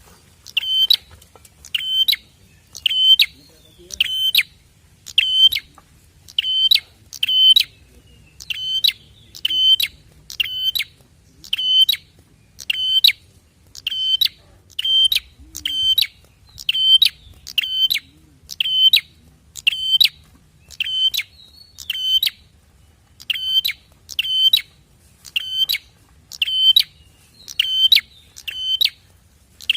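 Prenjak (prinia) song: a long, regular series of sharp, high chirps, a little more than one a second, played as a lure call to set other prinias singing.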